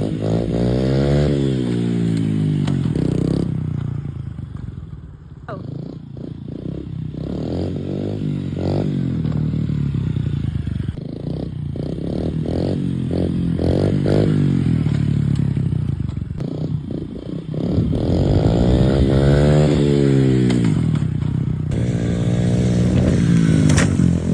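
Off-road vehicle engine revving up and down over and over, its pitch climbing and dropping. In the middle there is a string of short quick blips of the throttle.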